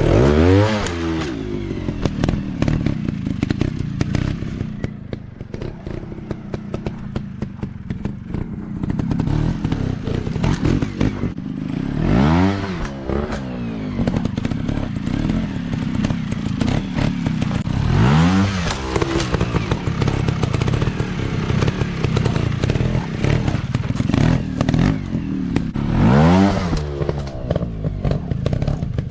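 Dirt bike engines running hard on a trail ride, blipped up in sharp revs about four times over a steady low running note, with some clatter and knocks.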